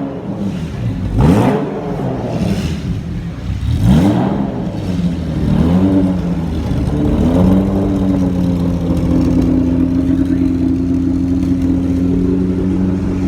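Sports car engine revved in several quick blips, its pitch rising sharply and falling back each time, then settling into a steady high-pitched run.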